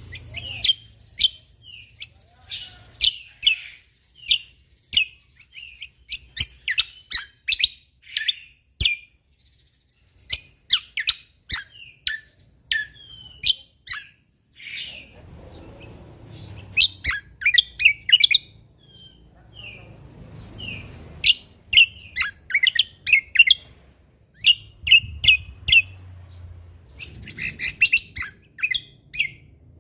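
Cucak kombo (kecial kombo) songbird singing vigorously: rapid runs of sharp, high chirps and short whistled notes, delivered in bursts with brief pauses between phrases.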